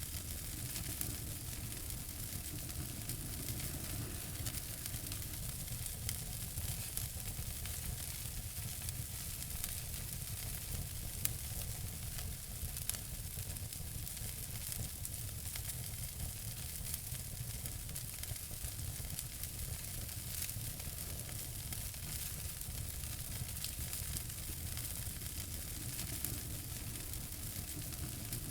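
Wood fire in a fireplace crackling, with a steady hiss and low rumble under many small pops. One sharper pop comes a little under halfway through.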